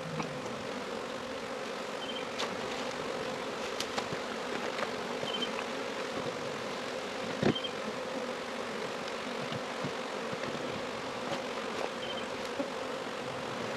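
A honeybee swarm buzzing as a steady, dense hum, with scattered light clicks and one louder knock about halfway through.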